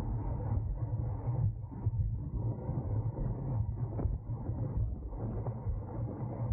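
Wind buffeting the microphone of a bike-mounted camera as the rider races in a criterium pack, a steady, uneven low rumble with a hiss above it.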